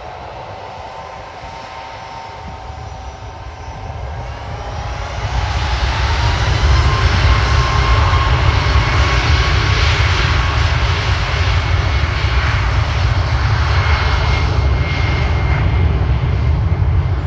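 Boeing 737 MAX 8's CFM LEAP-1B jet engines at takeoff power on departure: a deep rumble with a rising whine. It swells sharply about four to six seconds in, then stays loud.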